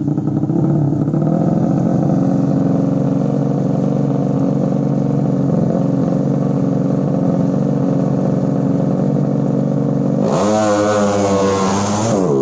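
Drag-race underbone motorcycle engines running steadily. About ten seconds in, an engine revs hard and accelerates, its pitch climbing steeply for about two seconds.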